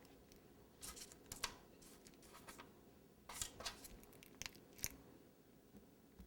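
Faint handling noises of dried decorating flowers being placed on a cake: a few short clicks and scrapes in three small clusters, about a second in, around three and a half seconds, and near four and a half seconds.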